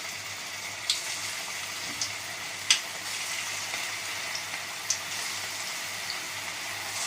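Cabbage Manchurian balls deep-frying in hot oil as they are dropped in one at a time: a steady sizzle with a few sharp crackles, the loudest near three seconds in.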